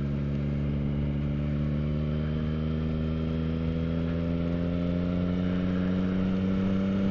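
2024 Yamaha XSR900 GP's inline three-cylinder engine through a Yoshimura AT2 exhaust, pulling steadily in gear with its pitch rising slowly as the bike gently accelerates.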